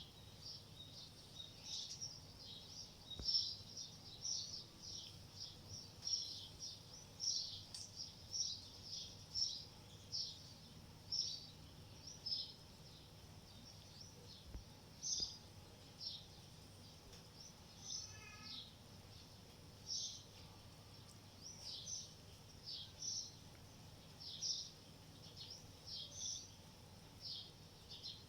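Small birds chirping over and over, short high calls one to three times a second, over a faint steady low hum.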